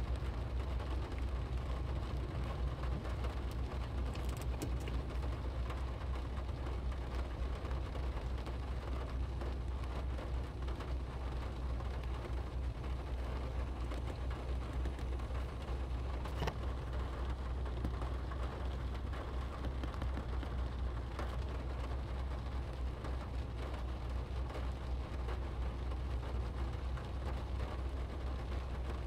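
Rain pattering on a car's roof and windshield, heard from inside the cabin, over a steady low rumble. A few sharper ticks stand out, about 4 seconds in and again around 16 and 21 seconds in.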